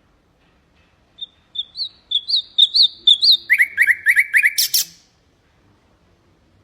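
A nightingale singing one phrase: a run of repeated whistled notes that each flick upward, then a faster run of lower repeated notes, closing on a loud rasping note. The phrase lasts about four seconds, starting about a second in.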